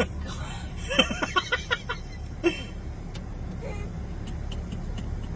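Steady low rumble of a car's engine and cabin, with a few short vocal sounds about a second in and faint light clicks in the second half.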